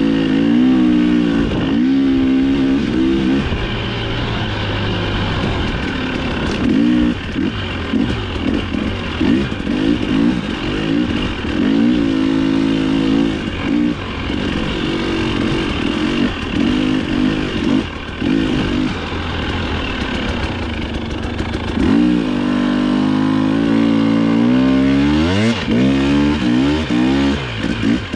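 Dirt bike engine heard up close, revving up and dropping off again and again as the throttle is opened and closed, with quick sharp rev rises near the end.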